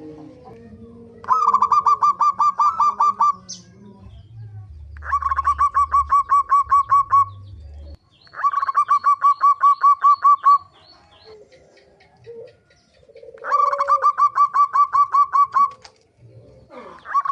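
Zebra dove (perkutut) calling: bursts of about two seconds of rapid, evenly repeated notes, around six a second, four times over, with a fifth burst starting near the end.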